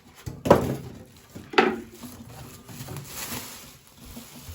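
Two sharp knocks of hard objects being handled and set down, about a second apart, each with a short ringing tail, amid quieter shuffling.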